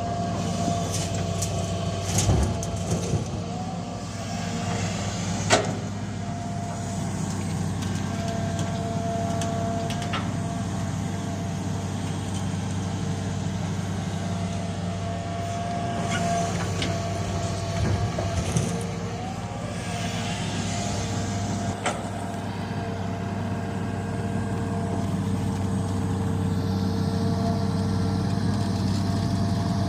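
Heavy diesel machine engine running steadily, with a few sharp clanks and knocks now and then.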